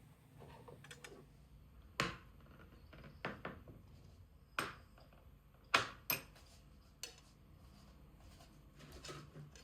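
Kitchenware being handled: several scattered, irregular clinks and knocks of dishes and utensils.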